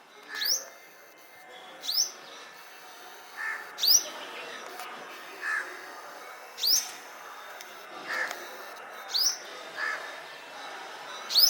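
Birds calling: a short, sharp, high call repeated every second or two, alternating with a shorter, lower call.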